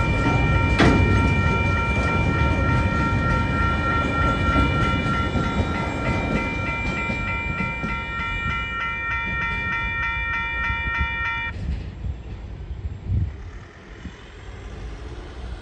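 Freight train wagons rolling past a level crossing with a steady rumble and wheel clatter on the rails, while the crossing's warning bell rings continuously. The bell cuts off suddenly about eleven seconds in, and the train's rumble then fades as the last wagon clears.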